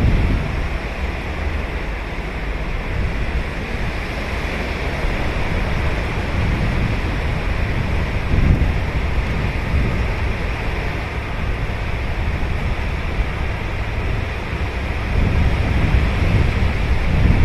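Ocean surf on a sandy beach: a steady wash of waves breaking and running up the shore, swelling louder with a low rumble about eight seconds in and again near the end.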